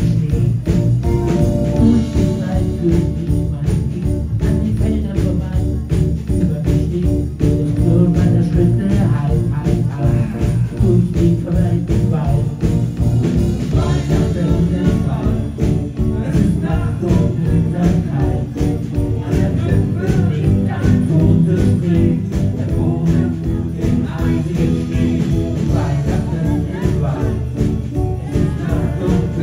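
Live band playing a Christmas song, with jingle bells ringing over a steady beat and bass.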